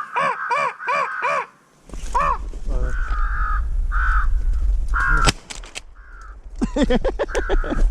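American crows cawing in quick series of harsh caws, several in a row near the start and again near the end. A single sharp bang about five seconds in.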